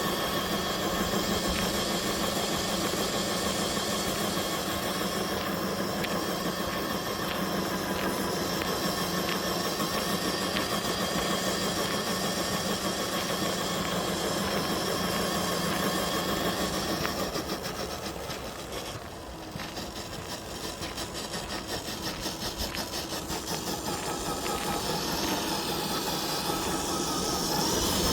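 Electric motor and gearbox of a scale RC crawler truck whining steadily as it drives, easing off about two-thirds of the way through and then picking up again.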